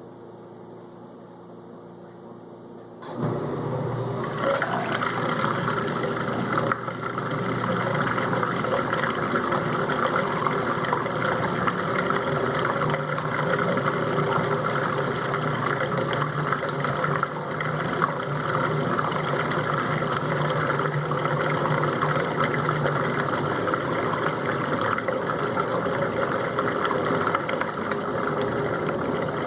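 Whirlpool dishwasher draining after the main wash: a low hum, then about three seconds in the pump starts suddenly and runs steadily, pumping out water.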